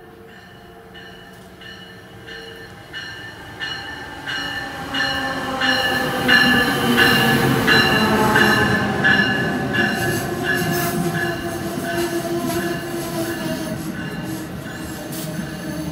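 Amtrak passenger train pulling in alongside the platform. It grows loudest about seven seconds in as the locomotive passes, with a slowly falling whine and a high steady squeal. A regular clicking of wheels over rail joints comes about twice a second as the cars roll by.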